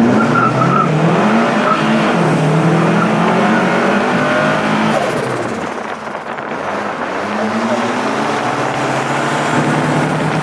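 Twin-engined Mini accelerating hard up a hill-climb course, its engines revving up through the gears. The revs climb, drop at a gear change about two seconds in, climb again, and drop once more around six seconds in.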